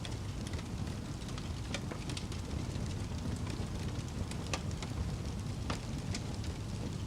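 Campfire burning with a steady low roar and frequent sharp crackles and pops of burning wood.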